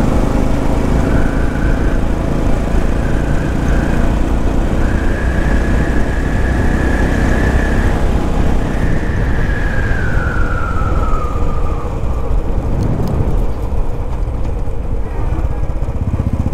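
Road vehicle noise with a heavy, steady low rumble, and a high whining tone that comes and goes for several seconds and then falls in pitch about ten seconds in.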